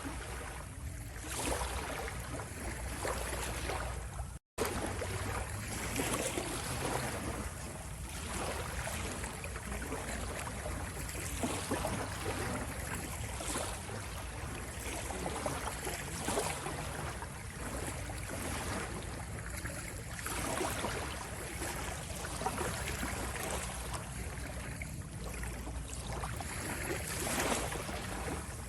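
Ocean waves washing in, a continuous surf that swells and eases every few seconds, broken by a split-second gap of silence about four seconds in.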